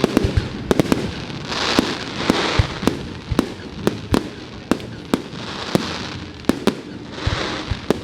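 Fireworks display: a rapid, irregular string of sharp bangs, about two a second, with swells of hissing crackle between them.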